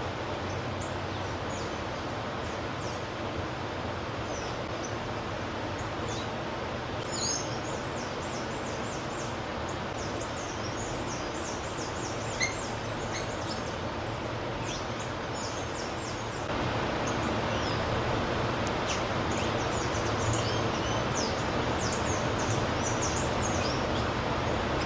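Wild birds calling in many short, high chirps over a steady background hiss, with the chirping busiest in two spells; the hiss grows louder about two-thirds of the way through.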